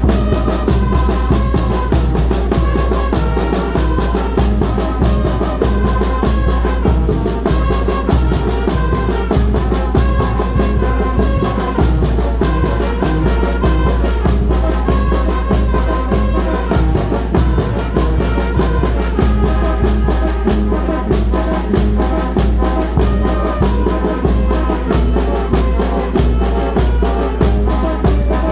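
Oaxacan banda, a brass and wind band, playing a tune: horns over a steady drum beat and a deep bass line.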